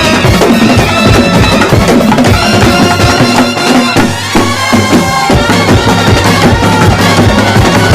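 Festival brass band playing a melody over snare and bass drums; the drums ease off briefly about halfway through.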